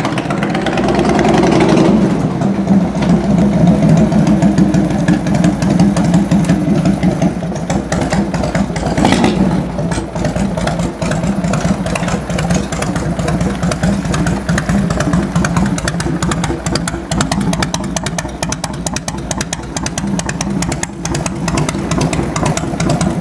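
1997 Harley-Davidson Heritage Softail Classic's carbureted Evolution V-twin running at idle, with a rise in engine speed about a second in and a short throttle blip around nine seconds in.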